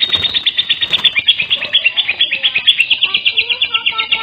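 Lovebird singing: a long, rapid run of high chirps, about ten a second, with a few lower whistled notes coming in near the end.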